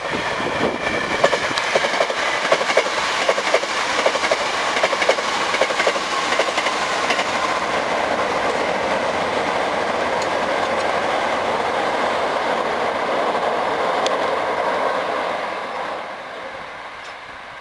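Hankyu 3300-series electric train running through at speed. Its wheels clack rapidly over the rail joints for the first several seconds, then settle into a steady running rumble that fades away near the end as the train draws off.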